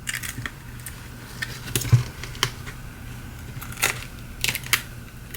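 Irregular small clicks and ticks of a tool and fingertips prying around the edge of a Samsung Galaxy S7 edge's glued glass back cover, working it free of the softened adhesive. A faint steady low hum lies underneath.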